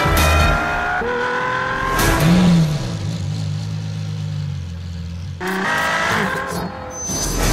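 LaFerrari's V12 engine at speed, its pitch climbing under acceleration and dropping back at gear changes. A louder run of revs starts about five and a half seconds in.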